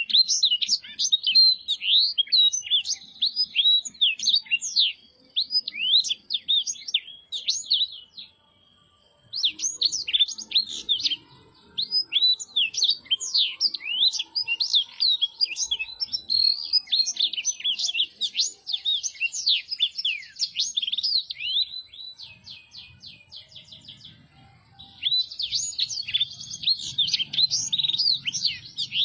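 Black-throated canary (blackthroat) singing a long, fast twittering song of quick high chirps and trills, breaking off briefly about eight seconds in and going quieter for a few seconds near the end before resuming.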